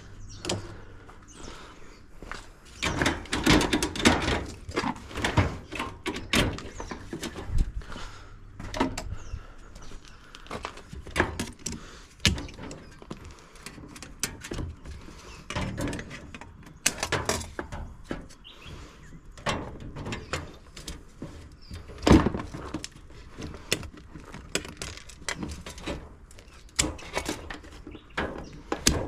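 Dishwasher parts and tools handled during a teardown: irregular metal clanks, knocks and rattles, with one sharper knock about two-thirds of the way through.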